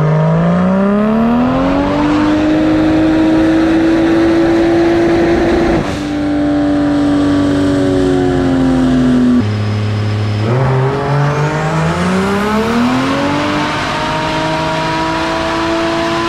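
Turbocharged 2JZ-based inline-six running full-power dyno pulls on high boost. Engine pitch climbs steeply for about two seconds and holds high, drops back to a low idle-like note about nine seconds in, then climbs and holds high again.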